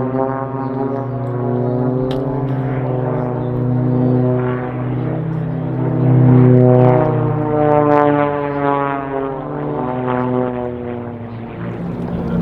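Propeller-driven piston-engine aerobatic aircraft flying past, a steady engine drone whose pitch bends as they pass, loudest about six seconds in.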